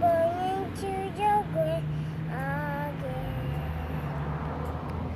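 A child singing short, wavering phrases for about the first three seconds, over a steady low hum.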